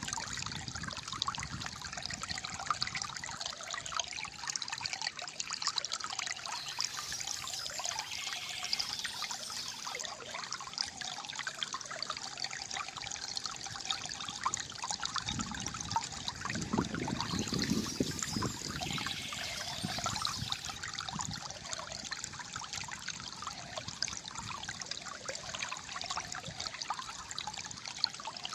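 Shallow flowing water trickling and gurgling steadily, with a deeper, fuller gurgle swelling up a little past the middle.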